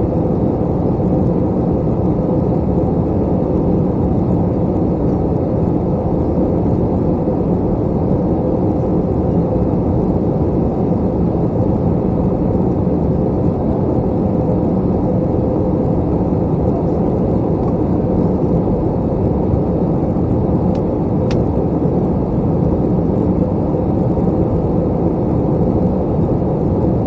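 Steady in-cabin roar of an Airbus A321 in flight: jet engine and airflow noise heard from a window seat, with a faint steady hum beneath it.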